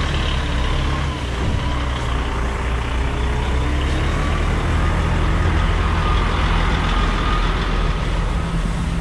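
Diesel engine of a container truck running steadily, an even low drone with no change in pitch.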